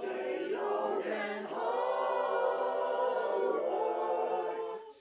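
Several voices singing together without accompaniment, ending on a long held chord that cuts off just before the end.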